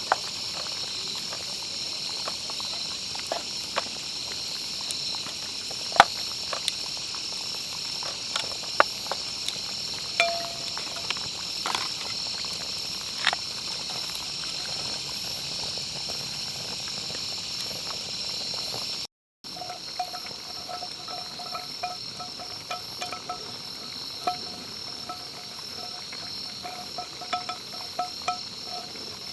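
Insects chirring in a steady, high-pitched chorus, with scattered sharp clicks. After a break about two-thirds in, a lower pulsing trill joins the chorus.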